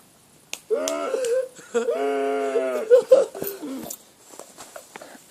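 A person's voice making two long, drawn-out wailing sounds, the second held on a nearly steady pitch for about a second and a half, followed by a few short vocal noises.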